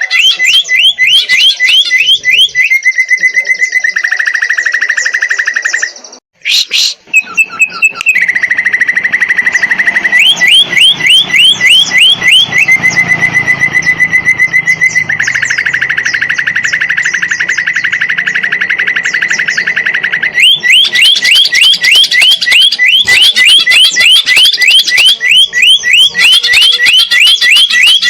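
Greater green leafbird (cucak ijo) singing loudly: rapid runs of repeated rising whistles alternating with fast buzzy trills held on one pitch, broken by a short gap about six seconds in.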